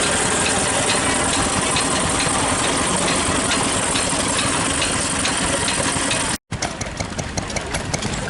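Vintage stationary engine running steadily, with a regular sharp tick about twice a second. After a brief break a little over six seconds in, a running engine ticks more quickly.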